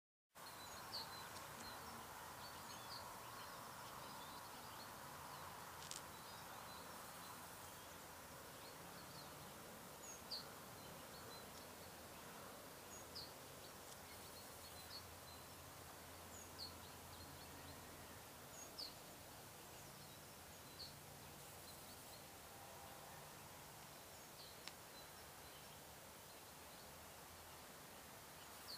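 Faint outdoor ambience with short, high bird chirps scattered every second or two, and one sharp click about six seconds in.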